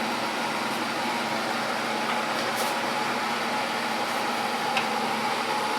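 Steady hum and hiss of an old transformer-type battery charger running an electrolysis rust-removal bath, with a few faint ticks.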